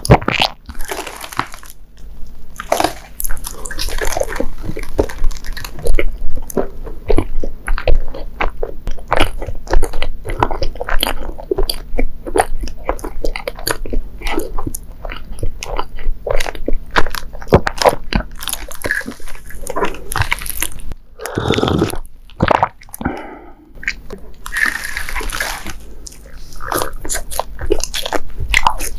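Close-miked chewing of soft, sticky Japanese mochi sweets: a dense run of short mouth clicks and smacks, with a fresh bite near the end.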